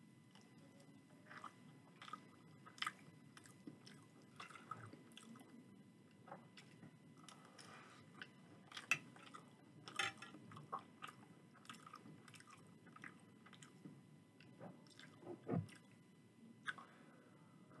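Close-up mouth sounds of a person chewing a spoonful of chicken curry and rice: soft wet chewing with many small sharp clicks, and one deeper thump near the end.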